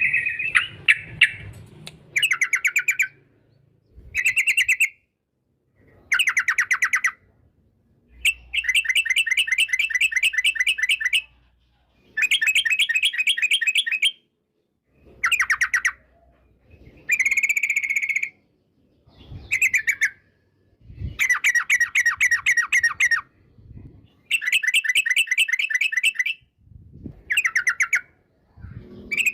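Yellow-vented bulbul (trucukan) singing its 'ropel' song: a string of rapid, rattling trilled phrases, each lasting one to three seconds, repeated about a dozen times with short silent gaps between them.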